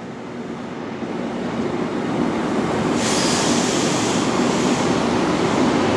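A Class 43 HST power car drawing in alongside the platform: a steady rumble that grows louder, with a hiss higher up joining about three seconds in.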